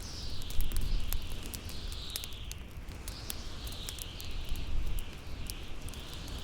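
Howling wind, a whistling tone that rises and falls in repeated swells over a low rumble, mixed with the sharp, irregular crackles and pops of a bonfire.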